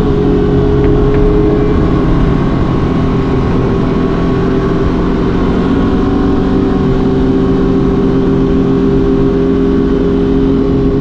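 Aprilia RS 660's parallel-twin engine running at a steady cruising speed, heard from on board the moving motorcycle with wind rumble underneath; the pitch holds nearly level, easing slightly about halfway through.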